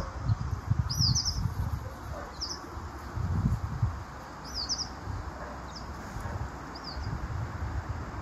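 A small bird chirping in short quick runs of two or three high notes, repeated every second or two, over wind gusting on the microphone with a low uneven rumble.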